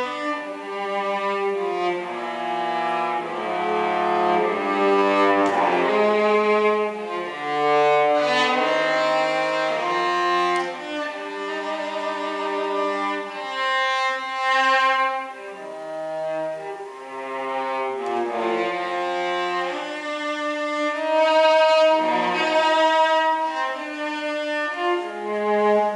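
Cello played with the bow: a classical piece in a run of sustained, singing notes that move from low to middle register.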